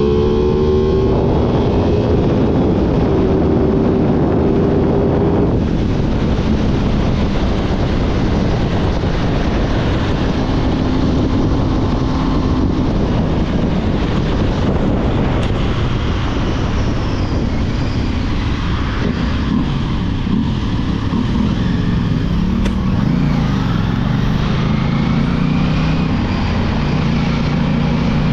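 Motorcycle engine running under way over a loud, steady rushing noise. The engine note climbs just after the start, then rises and falls repeatedly about two-thirds of the way through before holding steady.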